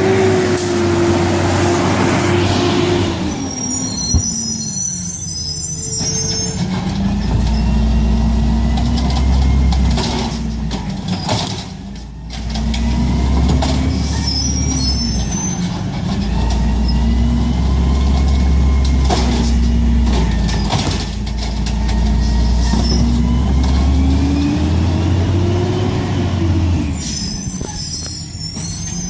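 Garbage truck engine speeding up and slowing down over and over. Three times there are short bursts of air hissing, typical of the truck's air brakes.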